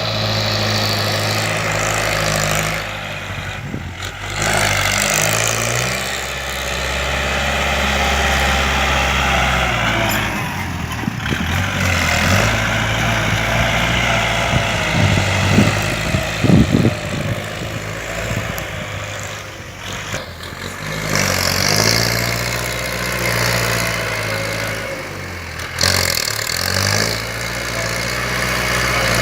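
Kubota L4708 tractor's four-cylinder diesel engine running while it grades and pushes soil, its pitch dropping and rising several times as the load and throttle change. A few clunks sound about halfway through.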